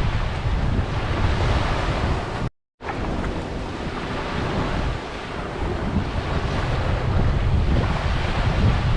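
Ocean waves washing onto the shore, with strong wind buffeting the microphone as a steady low rumble. The sound drops out to silence for a moment about two and a half seconds in.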